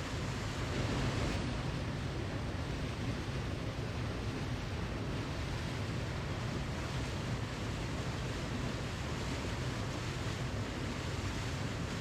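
Waterfall: steady rushing of falling water, a constant even roar with a slight swell about a second in.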